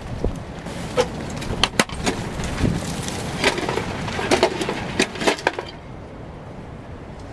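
Irregular knocks and clatters, about a dozen, some in quick pairs, stopping a little over five seconds in.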